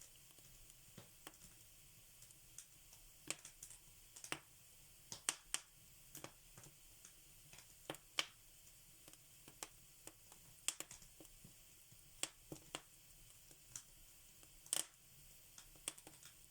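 Fire in a fireplace crackling: faint, irregular sharp snaps and pops at uneven intervals over a soft steady hiss.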